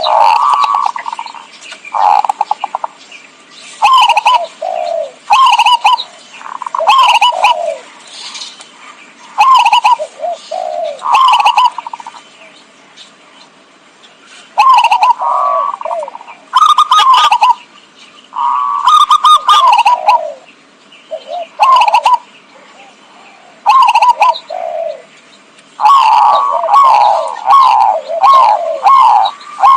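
Zebra doves (perkutut) cooing: short, quick, staccato cooing phrases repeated every second or two, with a pause of a few seconds near the middle. The song is played as a lure call (pikat) to draw wild zebra doves.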